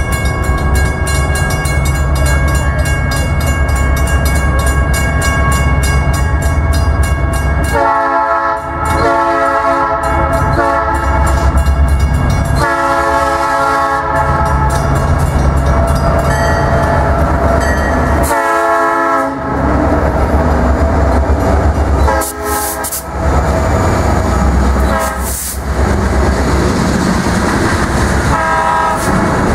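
Freight train's diesel locomotives running with a heavy low rumble as they pass, the horn sounding two long blasts and a shorter one from about eight seconds in, then several shorter blasts later. A grade-crossing bell rings rapidly in the first part, and the cars click over the rail joints as they roll by near the end.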